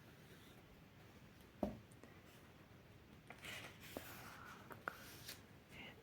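Faint paper sounds from handling a book: a soft tap about a second and a half in, then a run of light scratching, rustling and small ticks on the pages.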